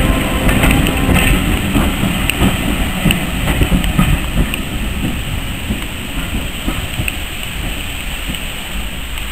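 Railway passenger coaches rolling past, their wheels clicking and knocking over the rail joints. The knocks thin out and the sound fades slowly as the last coach moves away.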